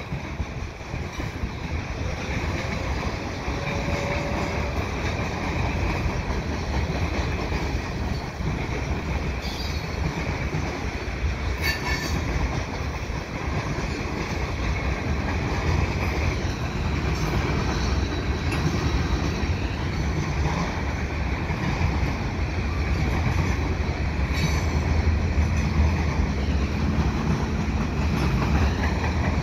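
Freight cars of a CN mixed freight train rolling past: boxcars, a lumber flatcar and covered hoppers. Their wheels make a steady, heavy rumble on the rails, with a few sharp knocks along the way.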